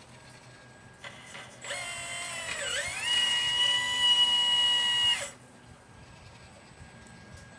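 1/12-scale RC Liebherr 954 excavator's electric motor whining for about three and a half seconds, starting about two seconds in. Its pitch dips briefly and climbs back, then holds steady until it cuts off.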